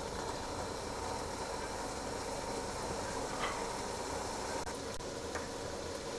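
Green chickpeas frying in spiced onion-tomato masala in a pot, a steady low sizzle with a few faint ticks: the chickpeas being roasted (bhuna) in the masala.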